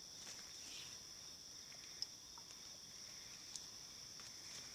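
Faint, steady high-pitched chorus of crickets, with two brief sharp ticks about two seconds in and again about a second and a half later.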